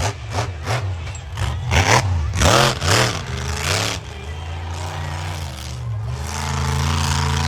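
A monster truck's supercharged V8 engine revving hard in repeated throttle blips, its pitch swinging up and down several times. It then settles into a steadier, slowly climbing drone.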